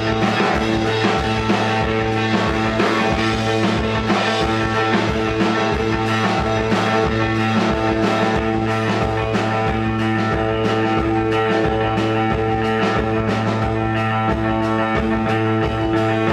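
Live rock band playing an instrumental passage: electric guitars over bass and a steady drum beat, with droning held chords.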